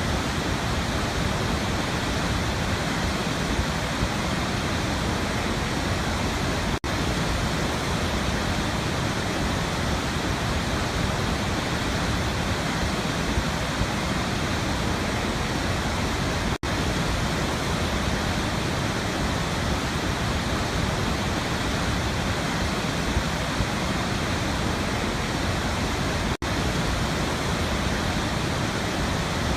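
Waterfall: water falling and splashing in a steady, even rush, with three very brief dropouts about ten seconds apart.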